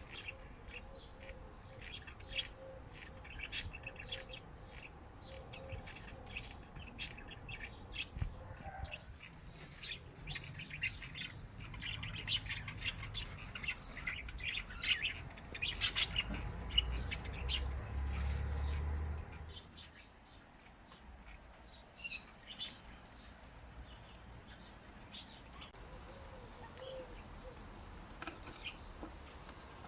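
Conure parrots chirping and squawking in quick, short calls, with a low rumble underneath for several seconds midway.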